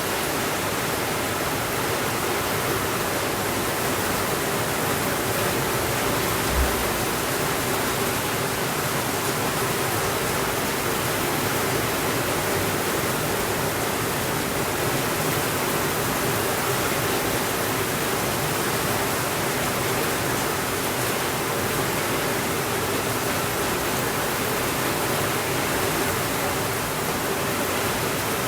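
Steady rainfall, an even hiss that does not change. A single brief low thump about six and a half seconds in.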